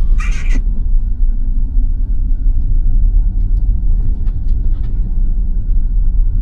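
Steady low road-and-tyre rumble inside the cabin of a 2021 Tesla Model Y electric SUV driving on snow-covered roads, with no engine note. A brief, brighter sound is heard just at the start.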